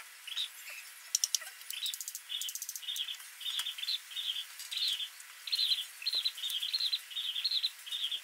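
A bird chirping over and over, about two short high chirps a second, from about two seconds in. A quick run of sharp clicks comes about a second in.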